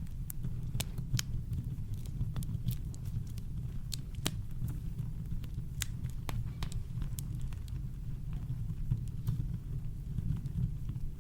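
Campfire wood crackling, with sharp pops scattered over a steady low rumble of brown noise; the pops come often in the first half and grow sparser later.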